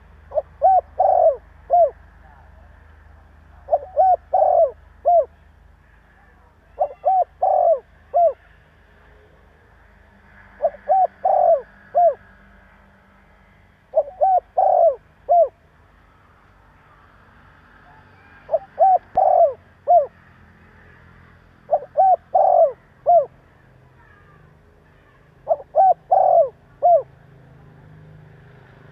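Spotted dove cooing: a phrase of four or five short coos, repeated eight times about every three to four seconds.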